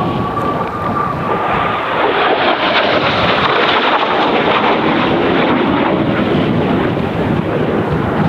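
Kawasaki T-4 jet trainers flying past with a loud turbofan roar and a thin whine that rises in pitch for the first second or so. The roar grows louder about two seconds in, with strong wind buffeting the microphone.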